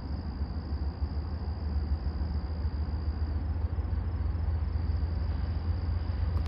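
Low rumble of an approaching train, slowly growing louder, with insects keeping up a steady high-pitched drone.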